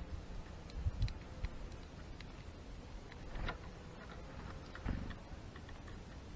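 Scattered light ticks and taps, with a few louder knocks about a second in, midway and near five seconds: a European greenfinch pecking and cracking seeds at a wooden bird feeder.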